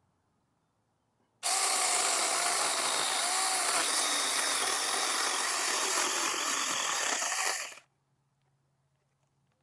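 Saker mini electric chainsaw running and cutting through a dense hardwood crape myrtle branch. It starts about a second and a half in, runs steadily for about six seconds, then stops suddenly.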